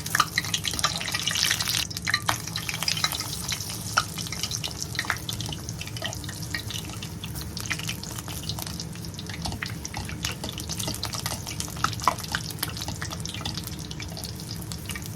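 Breadcrumb-coated bread balls deep-frying in hot oil: a steady sizzle with frequent crackles and pops, over a low steady hum.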